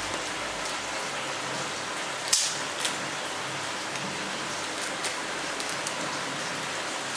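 Vegetables sizzling steadily in oil in a metal kadai over a gas burner, with a few sharp clicks and crinkles as a small plastic spice packet is cut open, the loudest about two seconds in.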